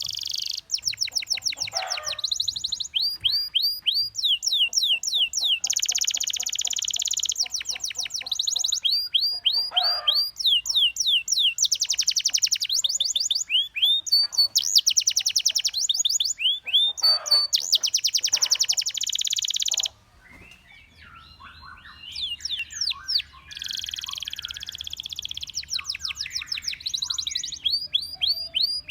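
Domestic canary singing a long song made of rapid rolls, each a fast run of repeated high falling notes, changing to a new roll every second or so, with a short break about two-thirds through.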